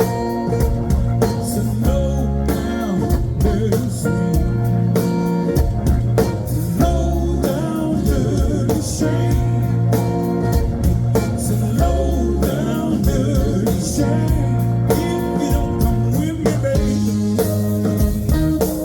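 Live blues band playing an instrumental passage: electric guitar over held bass notes and steady drum hits.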